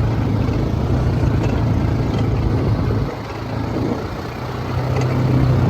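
A vehicle engine running under load off-road; it eases off about three seconds in and picks back up near the end.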